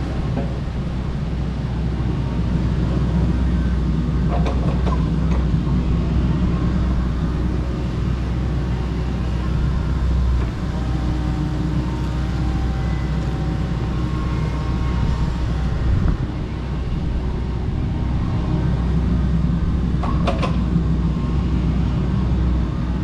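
Kobelco SK85 MSR 8-ton excavator's diesel engine running steadily under work, with a few short knocks about five seconds in and again near twenty seconds.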